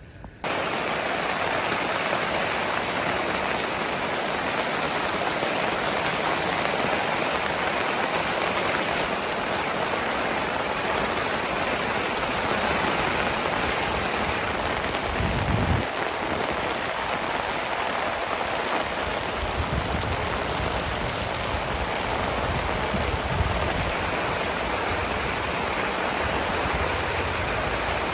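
Heavy rain falling, a dense steady hiss that starts abruptly just after the beginning, with bouts of low rumble in the second half.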